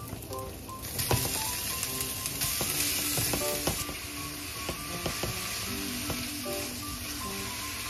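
Ginger and ground pork sizzling as they are stir-fried in sesame oil in a frying pan, the sizzle growing louder about a second in. A spatula scrapes and taps against the pan as the meat is stirred.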